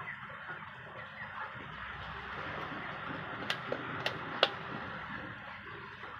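Steady din of a poultry shed full of broiler chickens, with three sharp clicks a little past the middle.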